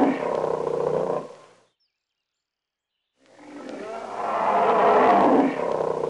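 A long animal call, heard twice with a gap of dead silence between: the first fades out about a second and a half in, and the second starts about three seconds in.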